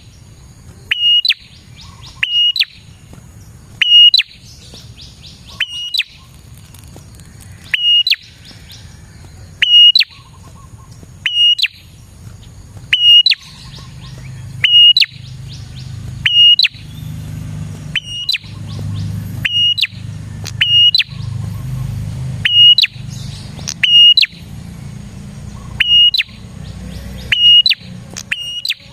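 Prenjak (prinia) calling loudly: short, sharp, piercing notes repeated about every one to two seconds, with softer chattering trills between them. A low rumble rises underneath through the middle.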